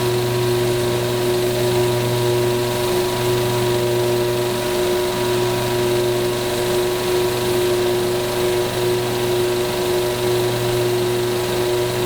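Peugeot 408 THP's engine idling steadily in gear while fluid is pumped through the automatic transmission during a fluid exchange. It makes a constant low hum with a steady whine over it.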